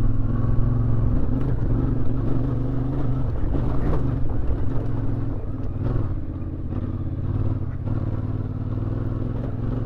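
CFMoto 450MT parallel-twin motorcycle engine running at a steady cruise, with a little wind noise; it eases slightly about halfway through.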